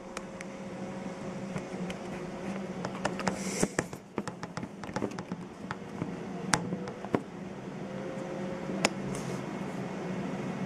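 Heavy thunderstorm rain hissing steadily and growing slowly louder, with irregular sharp knocks of drops and stones striking hard surfaces, a few of them loud.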